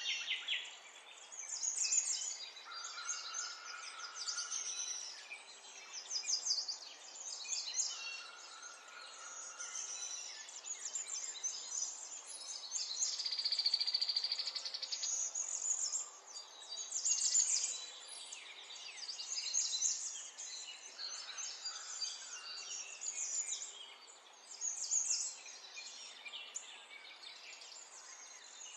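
Birds chirping and singing in rapid trills, with the calls overlapping and repeating throughout.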